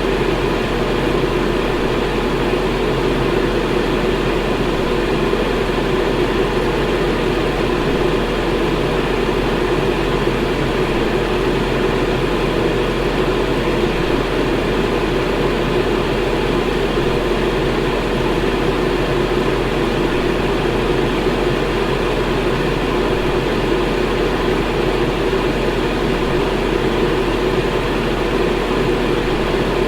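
Electric fan running steadily: an unbroken whoosh of moving air with a low hum beneath it, unchanging throughout.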